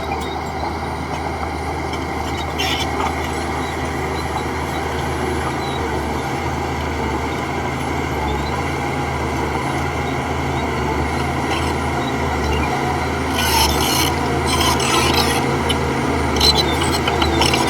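Heavy diesel engine of a bulldozer running steadily under load. Short bursts of scraping and clattering come in about two-thirds of the way through and again near the end.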